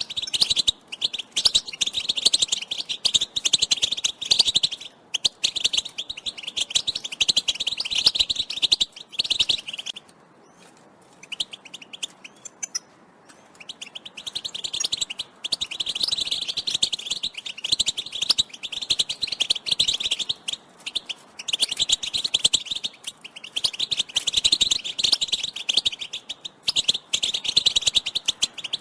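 European goldfinch singing a fast, continuous twittering song of rapid chirps and trills, the song that keepers play to rouse male goldfinches into song. It breaks off for a few seconds about ten seconds in, then starts again.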